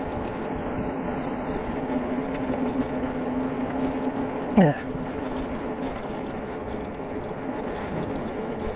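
Bicycle rolling downhill: a steady rolling rush with a hum that holds for a few seconds and fades out about six seconds in. A man calls out "yeah" about halfway through.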